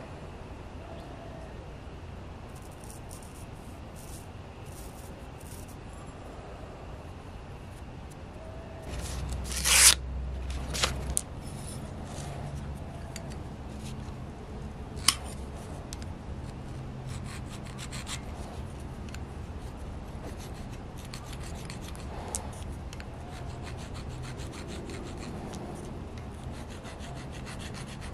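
Knife blade being sharpened by hand: steady rubbing strokes of metal on an abrasive. A short louder knock and sharp clicks come about a third of the way in, and another sharp click comes around the middle.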